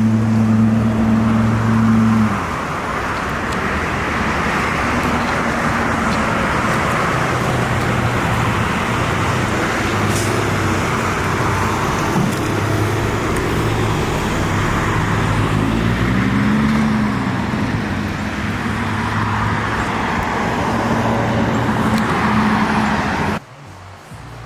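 A car engine running with a steady hum and a wide hiss over it, rising briefly in pitch once about two-thirds of the way through. It cuts off suddenly just before the end.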